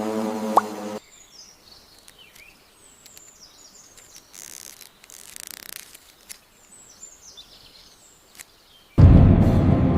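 Quiet forest ambience with small birds chirping in short twittering calls, once about a second and a half in and again near the end, with a brief rush of noise in the middle. Music cuts off about a second in and comes back loudly near the end.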